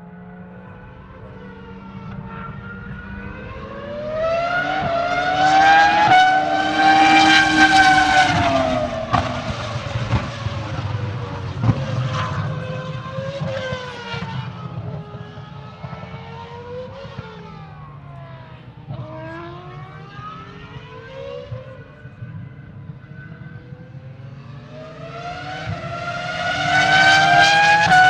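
Renault RS25 3.0-litre V10 of a 2005 Renault R25 Formula 1 car at very high revs, its pitch climbing and dropping again and again as it shifts through the gears. It swells loudest about five to nine seconds in, drops back, and builds again near the end.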